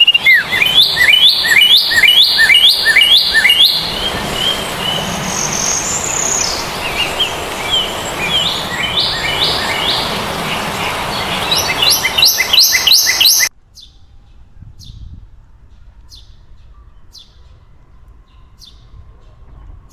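Birds singing: loud, rapidly repeated chirps, about three a second, in several bouts over a steady background hiss. About two-thirds of the way through the sound cuts off suddenly to a much quieter stretch with faint, short, high chirps at regular intervals.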